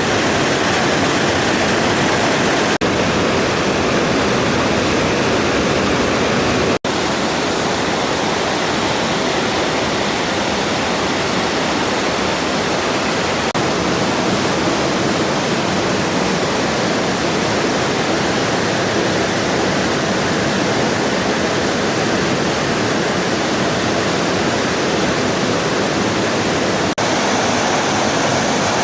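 Waterfall rushing loudly and steadily. The sound cuts out for an instant about seven seconds in.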